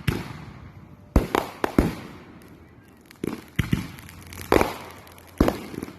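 Fireworks exploding overhead: about ten sharp bangs at irregular intervals, some in quick pairs, each followed by a short echo.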